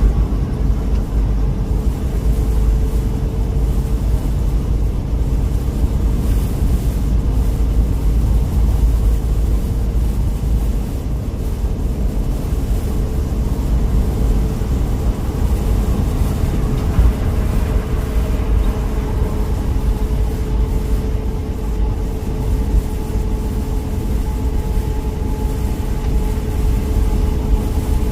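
A vehicle is driving with a steady low engine and road rumble and a constant hum throughout, typical of a truck on the road.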